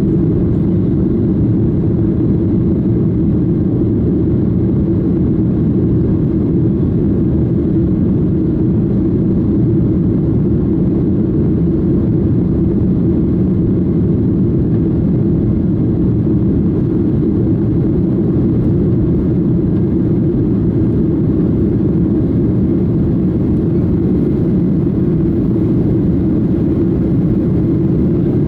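Steady cabin noise of a Boeing 737-800 in flight: the even drone of its CFM56-7B turbofan engines and the rush of air over the fuselage, heavy in the low end with no change in pitch.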